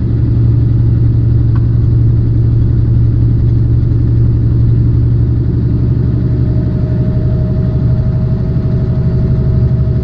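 Semi truck's diesel engine running steadily under way, heard from inside the cab as a loud low drone with road noise. A faint steady high whine joins about six seconds in.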